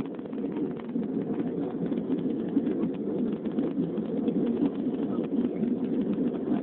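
Airliner engine noise during takeoff: a steady low rumble.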